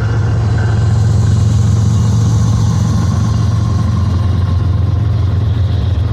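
GE diesel-electric freight locomotives working under power as an intermodal train pulls away, a loud, steady, deep engine drone that swells slightly about a second in.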